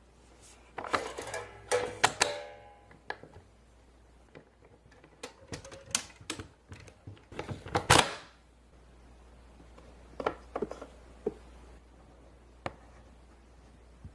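Hard plastic clicking and clacking from a toy Play-Doh playset being handled, its platform and mode parts being moved and snapped into place. The clicks come in scattered runs, with the loudest clatter about eight seconds in and a few single clicks after.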